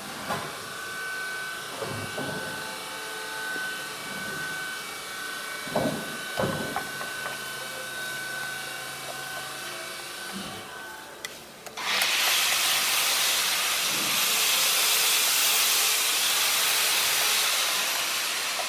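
A few scattered knocks over a quiet background, then a loud, steady hiss that starts suddenly about twelve seconds in and fades slightly near the end.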